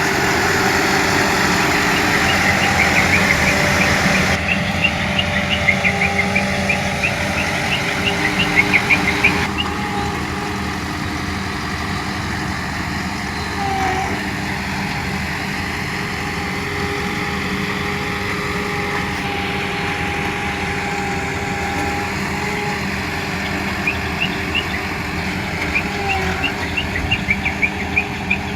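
Vibratory road roller's diesel engine running steadily. A rapid, repeated high chirping sounds over it for the first several seconds and again near the end.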